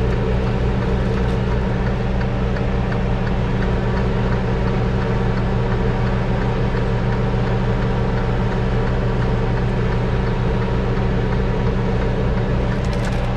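Semi truck's diesel engine idling steadily, with an even low throb.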